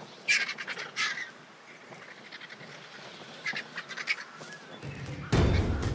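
Vultures squabbling as they feed at a carcass, with runs of short calls about a second in and again around four seconds. A loud low rumble sets in near the end.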